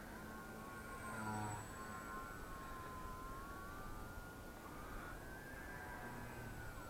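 Electric motor and propeller of an EPP foam Edge 540 3D RC plane whining, the pitch sliding down and back up with the throttle.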